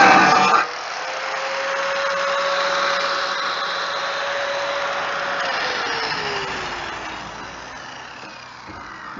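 Electric grinder lifted off the metal about half a second in, then running free with a steady whine; about five seconds in it is switched off and winds down, the whine falling in pitch as it fades.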